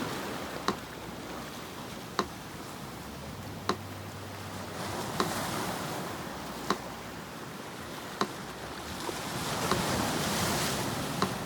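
Sea surf washing in slow swells, with a metronome ticking slowly and evenly over it, one tick every second and a half.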